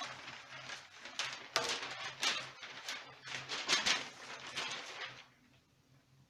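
Paper being handled and crinkled: a run of irregular rustles and crackles that stops about five seconds in.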